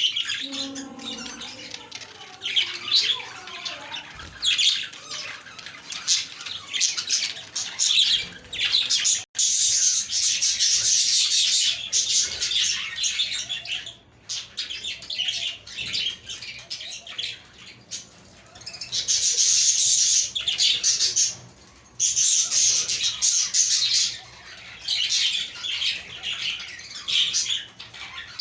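A flock of budgerigars chattering, warbling and chirping all at once, in louder and quieter stretches.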